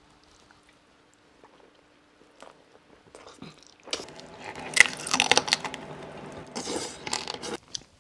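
Biting and chewing into crispy-skinned fried pork belly, close to the microphone: a dense run of loud crackling crunches that starts about halfway in and stops shortly before the end. Before it there is near silence with only a faint steady hum.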